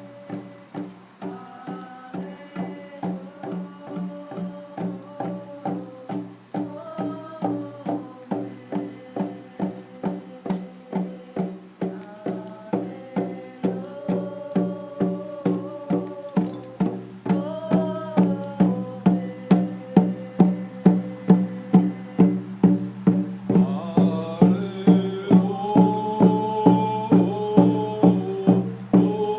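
Voices singing to a steady drum beat of about two strokes a second, growing louder, with higher notes joining about three quarters of the way through.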